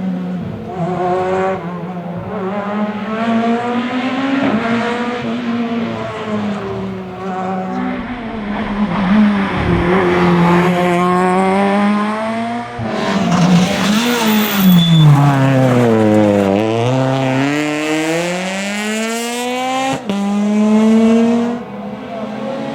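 Rally car engine revving hard through a stage section, its note climbing and dropping again and again with gear changes and lifts. A deeper drop and climb comes about two-thirds of the way through.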